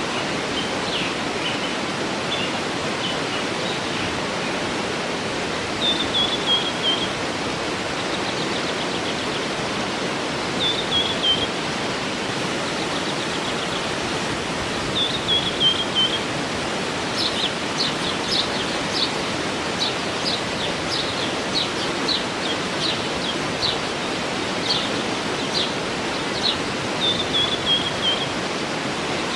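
Steady rush of a waterfall with birds calling over it: a short falling call heard four times, and in the second half a run of quick, sharp chirps.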